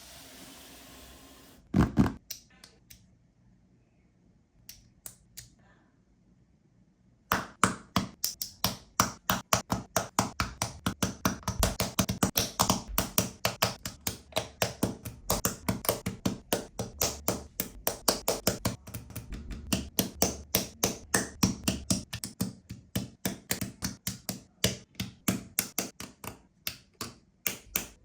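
Plastic LEGO bricks from the City 60287 Tractor set being snapped together and handled, in sharp clicks. The clicks are few at first, after a short hiss, then come thick and fast, several a second, from about seven seconds in.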